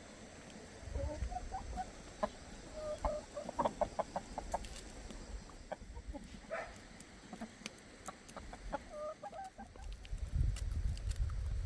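Chickens clucking in short repeated calls, with a low rumble that swells about a second in and again near the end.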